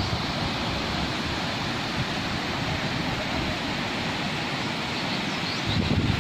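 Steady rushing of water, an even hiss without any pattern. Wind buffets the microphone briefly near the end.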